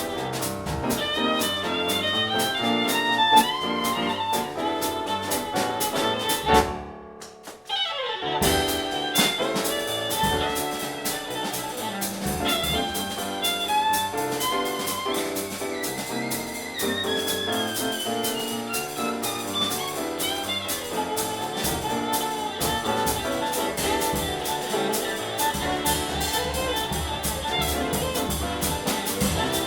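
Jazz trio of violin, piano and drums playing an up-tempo tune, with an even stroke on the cymbals under the melody. About seven seconds in the music drops out briefly, then comes back in.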